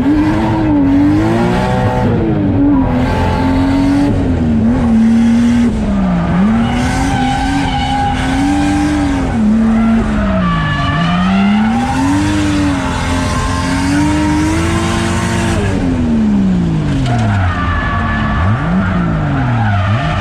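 630-horsepower drift car's engine revving hard, its pitch rising and falling again and again as the throttle is worked, with two steep drops near the end; the tires squeal as the car slides.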